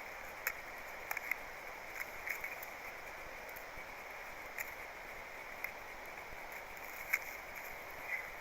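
Steady outdoor background hiss with a few sharp light clicks scattered through it, the loudest about seven seconds in.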